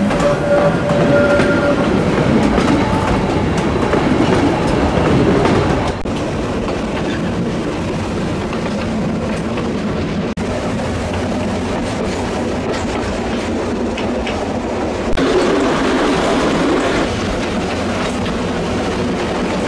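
Steam train's passenger carriages rolling along the track, wheels clicking over the rail joints with a steady running rumble. A steady high tone is heard during the first two seconds.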